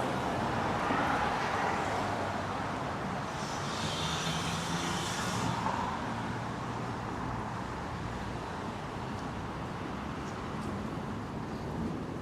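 City street traffic: cars passing steadily, with a louder hiss from about three to five seconds in.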